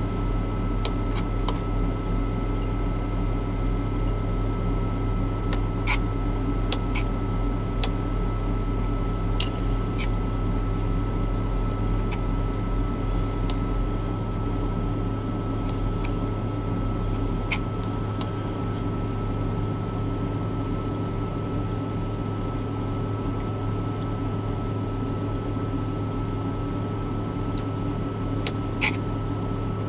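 Steady mechanical hum inside a truck cab, with a few faint higher steady tones, from the idling truck or its climate fan. A handful of light clicks and taps of food being handled in a plastic container are scattered through it.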